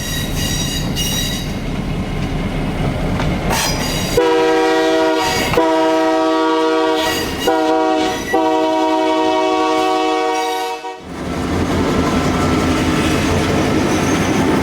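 Diesel locomotive running past with a rumble, then its multi-note air horn sounding four blasts, long, long, short, long: the standard grade-crossing signal. After the horn the train's rumble continues.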